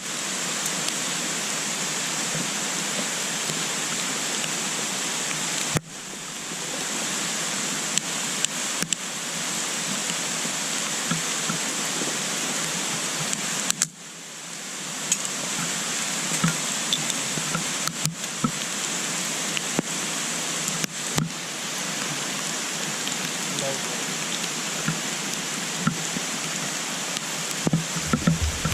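Wood fire burning in a compact wood-burning stove: a steady rushing hiss with scattered crackles and small pops, and two sharper cracks, about six and fourteen seconds in.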